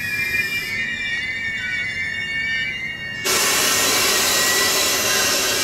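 Passenger train's wheels squealing on the rails in several wavering high tones as it runs into the station braking. About three seconds in, a loud steady hiss sets in suddenly and drowns the squeal.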